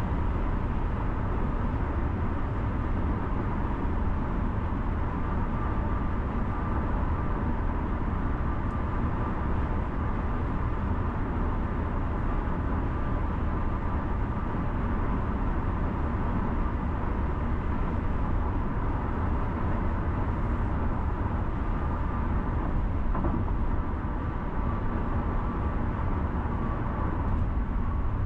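Steady road noise of a car being driven: an even low rumble of tyres and engine, with a faint steady whine above it.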